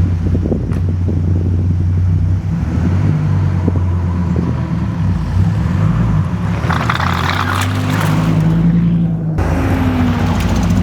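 Car engine running steadily with a low hum. From about six and a half seconds in, a hissing noise swells for a few seconds and then breaks off suddenly.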